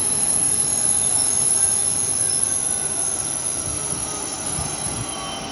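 High-speed electric passenger train rolling slowly along the platform and braking to a stop, with a thin high squeal that fades as it comes to a halt.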